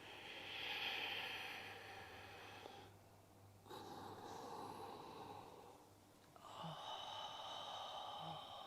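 A woman's slow, audible yogic breathing, Ujjayi-style through a narrowed throat: three long, soft, hissing breaths, each two to three seconds, in time with side-bending stretches.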